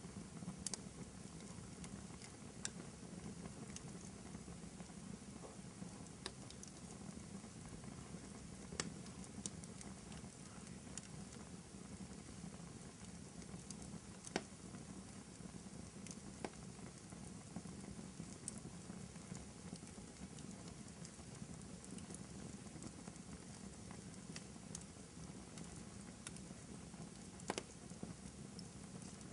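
Crackling wood fire in a fireplace: a steady, soft low noise from the burning, with sharp pops and crackles at irregular intervals. A few pops stand out louder than the rest.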